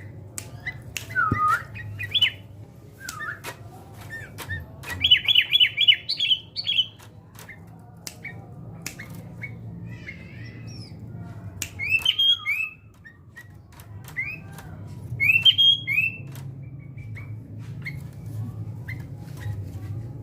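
Sooty-headed bulbul calling in short bursts of chirps and squawky gliding notes, with a fast run of repeated notes about five seconds in and further bursts near twelve and fifteen seconds. Sharp clicks come between the calls, over a steady low hum.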